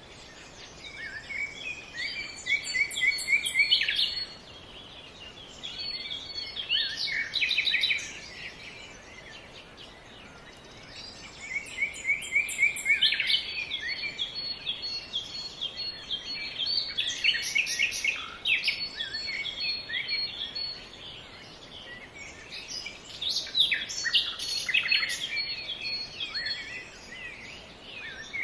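Songbirds singing in bouts of rapid chirps and trills a few seconds long, with short pauses between, over a faint steady background hiss.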